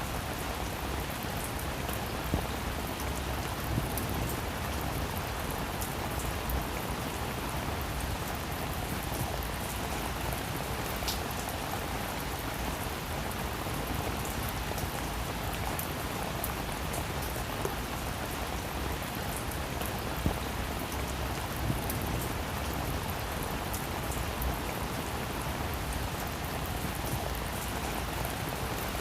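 Heavy rain falling steadily, with scattered individual drops ticking on a surface.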